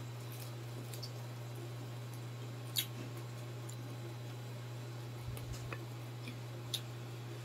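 Close mouth sounds of people eating crispy deep-fried pork intestines: scattered soft chewing clicks and smacks, with a sharper crunch about three seconds in and another near the end. A steady low hum runs underneath.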